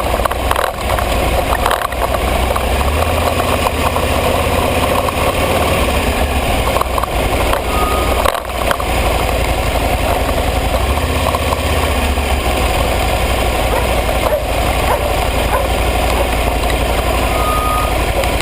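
Aprilia ETV 1000 Caponord's V-twin engine running steadily, with a brief dip in level about eight seconds in.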